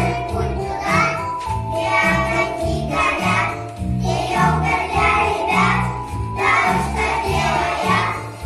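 A children's song: sung voices over music with a steady beat.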